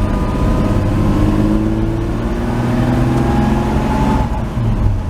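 1949 Chevy 3100 pickup's engine pulling under acceleration, its note rising steadily for about three seconds, then dropping off abruptly about four seconds in.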